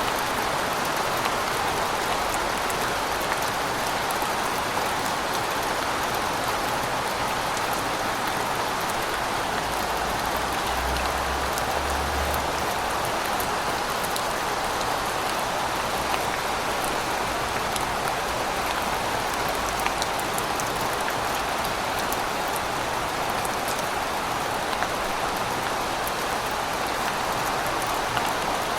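Steady rain falling on a surface, an even hiss with many fine drop ticks. A faint low rumble comes in about ten seconds in and fades a few seconds later.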